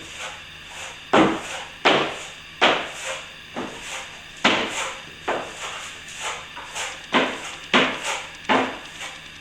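Steel plastering trowel stroking across setting plaster as the finish coat is polished up: a series of quick irregular scraping strokes, about one or two a second, each starting sharply and fading quickly.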